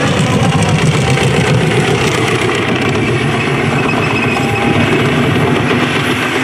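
Holden Commodore burnout car's engine held at high revs, loud and steady, while its rear tyres spin and smoke on the burnout pad.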